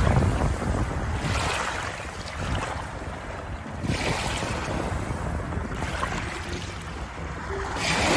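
Water waves washing in and drawing back, rising to a surge every few seconds over a steady rush of water.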